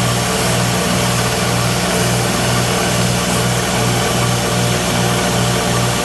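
Electric sanding machine running steadily, its motor humming under an even abrasive hiss, with a slight regular pulse about twice a second.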